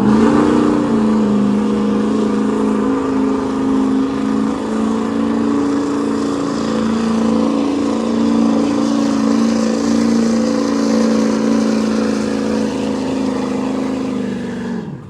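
Pulling vehicle's engine held at high revs under load. Its pitch rises briefly at the start, then holds steady, and the sound cuts off abruptly near the end.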